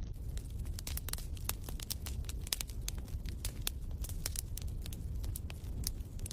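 Wood fire crackling in a fireplace: irregular sharp pops and crackles over a low steady rumble.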